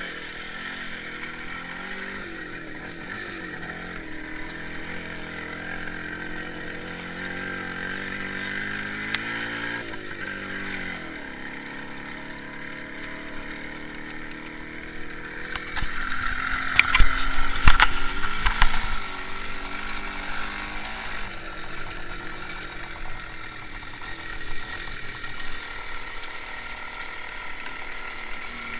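IZh Jupiter-5 motorcycle's two-stroke twin-cylinder engine running under way, its pitch rising and falling with the throttle. A little past halfway come a few seconds of louder knocks and rattles.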